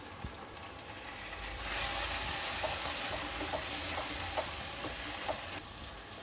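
Chopped tomatoes, coriander and fried onions sizzling in oil in a nonstick pan. From about a second and a half in, a wooden spatula stirs them: the sizzling grows louder, with light scrapes and taps, and eases off shortly before the end.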